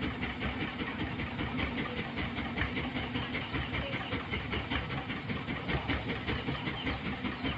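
A machine running steadily, with a rapid, even clatter.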